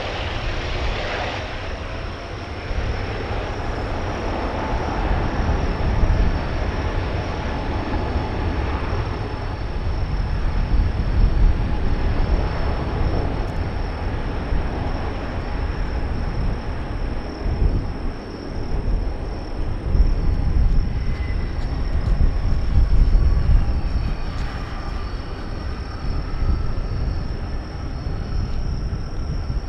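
Four-engine Airbus A380 jet (Rolls-Royce Trent 970 engines) at takeoff thrust: a deep, noisy rumble that swells and dips unevenly.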